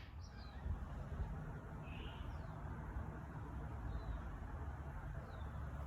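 Faint, scattered bird chirps over a low, steady background hum.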